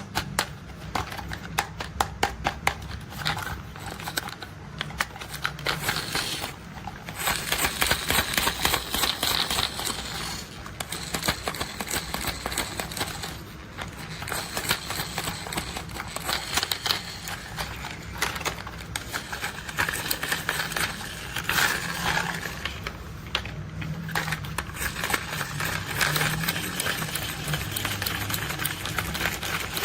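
Rapid, dense clicking and rattling of small plastic toy construction vehicles being handled and worked, with a few short pauses, over a steady low hum.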